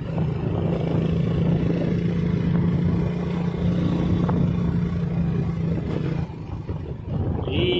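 Motorcycle engine running steadily while riding. Its steady note drops away about six seconds in.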